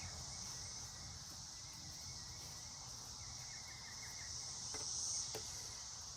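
Insects chirring steadily: a continuous high-pitched buzz, with a couple of faint clicks about five seconds in.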